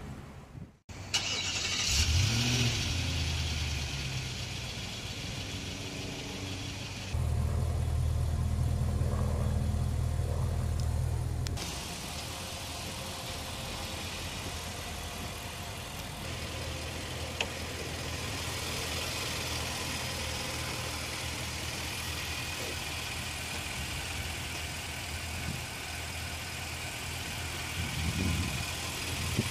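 2017 Nissan Armada's 5.6-litre V8 starting about two seconds in, flaring up briefly and settling into a steady idle. The idle is louder for a few seconds in the middle, then runs on evenly, with a couple of short rises in engine speed near the end.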